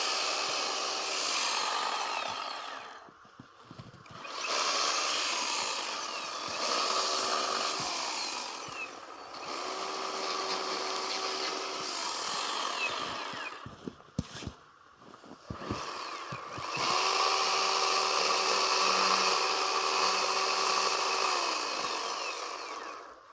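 Two-stroke chainsaw cutting into a block of packed snow, held at high revs in long stretches. It drops back to a low idle about three seconds in, and again around fourteen to sixteen seconds in with a few knocks, before revving up once more.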